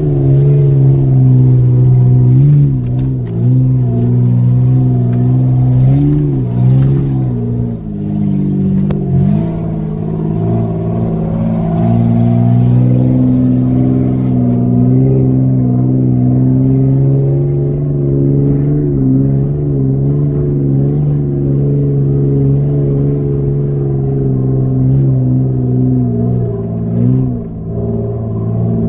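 Off-road vehicle's engine running under steady load at low revs on a rough dirt track, heard from inside the vehicle, with the revs briefly rising and falling a few times.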